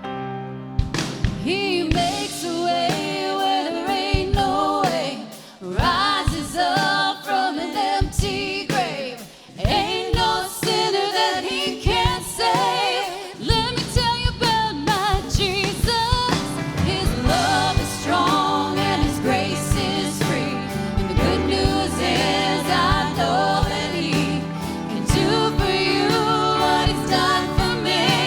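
Worship band music with a lead vocalist singing. The song starts sparse and the fuller band with drums comes in about halfway through.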